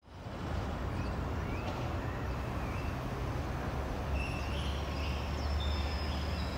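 Railway platform ambience: a steady low rumble of an approaching electric train, with birds chirping. About four seconds in a high steady whine joins.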